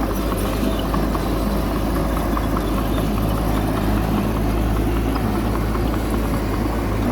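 Bulldozer's diesel engine running steadily, with a dense scatter of small clicks and rattles over the engine.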